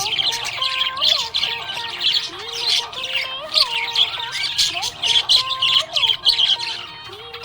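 Budgerigars chirping and squawking in quick, continuous chatter.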